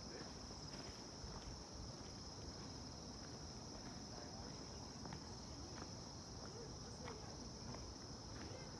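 Steady insect chorus: one continuous high-pitched shrill drone that holds level throughout, with a few faint scattered ticks.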